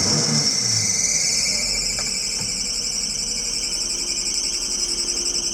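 A shrill, steady chorus of insects with a fine pulsing texture. The Mitsubishi Minicab's small engine, revving just before, drops away about a second in.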